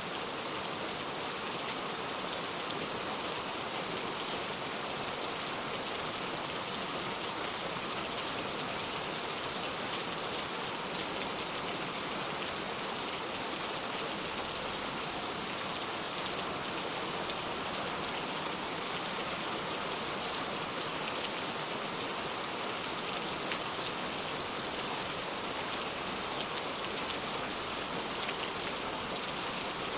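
Steady rain falling on the ground, with an even hiss and scattered individual drop ticks.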